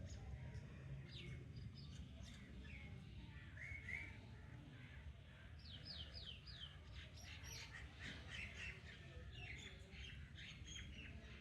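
Caged parrot chirping and squawking in many short, high calls, including a quick run of four sliding notes about halfway through, over a faint low hum.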